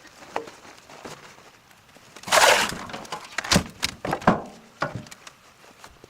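A short scraping rush, then a run of five or six sharp knocks over about two and a half seconds.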